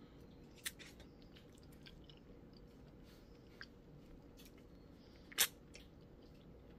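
Faint close-up chewing of soft mango, with a few short sharp clicks; the loudest click comes about five and a half seconds in.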